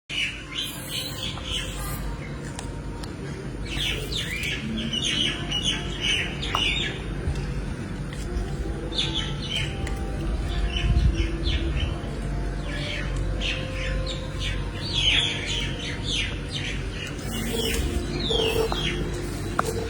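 Birds chirping: many short, high chirps, often falling in pitch, come in irregular clusters throughout, over a steady low hum.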